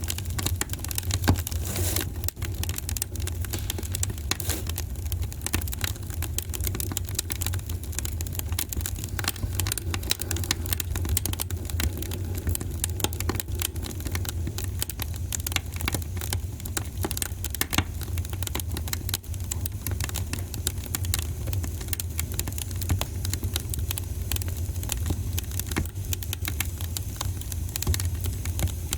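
Wood fire in a fireplace crackling: a dense, constant run of small pops and snaps over a steady low rumble.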